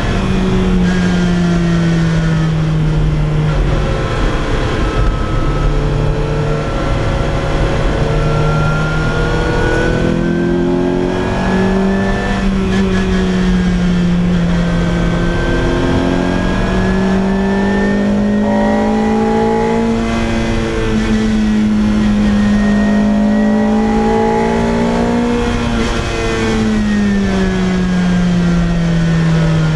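Lotus Exige Cup's naturally aspirated four-cylinder engine and loud exhaust on the move, its pitch rising and falling as it pulls and eases off through the revs, dropping away near the end as the driver lifts off.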